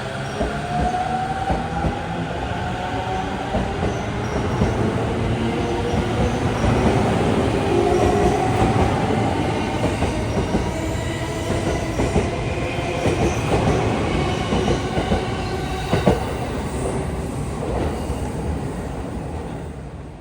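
Electric commuter train running along a station platform: a motor whine that rises in pitch as it picks up speed, over wheels rattling on the rails, with a sharp knock about 16 seconds in.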